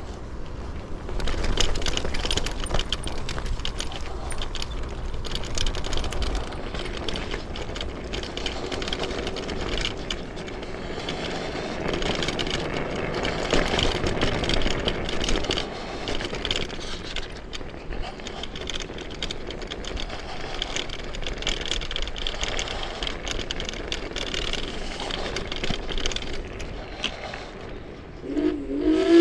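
Chaos FreeRide 2400 W dual-motor electric scooter being ridden: steady wind and road noise with a dense rattle over rough ground, and a rising whine just at the end.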